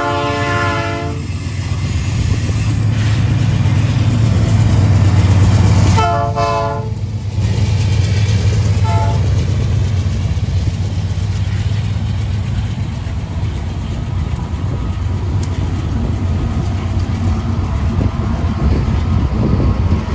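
GE AC44i diesel freight locomotives approaching and passing, their engines running with a steady low rumble under rolling wheel noise. The lead locomotive's horn sounds three times: a blast ending about a second in, another about six seconds in lasting just over a second, and a short toot around nine seconds.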